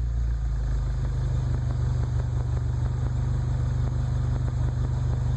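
1993 Honda Civic's 1.6-litre four-cylinder engine idling steadily through a Yonaka aftermarket exhaust, with a test pipe in place of the catalytic converter.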